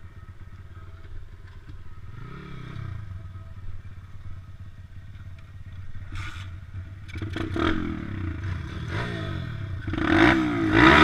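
Pit bike engine running low at first, then revving up and down with rising and falling pitch, getting much louder from about seven seconds in.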